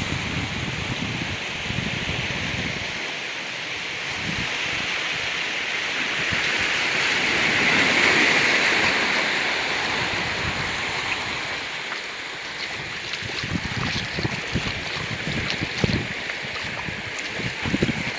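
Ocean waves washing on a rocky beach, a steady surf hiss that swells to a peak partway through and then eases. Wind buffets the microphone in low gusty thumps that grow more frequent near the end.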